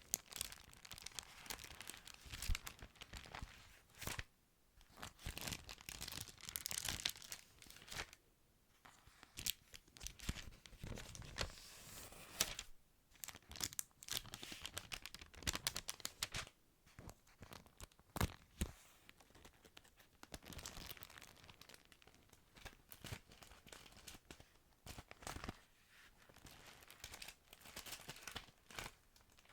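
Thin Bible pages being handled and turned: irregular paper rustling with many small sharp clicks and taps, and brief pauses between movements.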